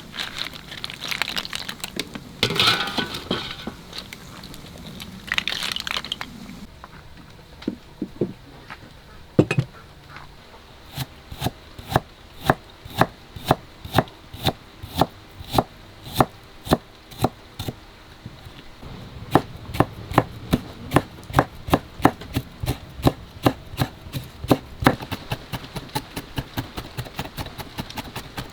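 Knife chopping on a cutting board: a steady run of sharp knocks, about two a second, that gets quicker, nearer three a second, in the last third. The first few seconds hold rustling and crinkling handling noise before the chopping starts.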